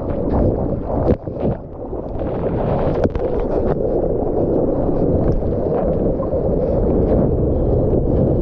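Boat under way: a steady motor-and-water rumble with wind buffeting the microphone, briefly dipping about a second in.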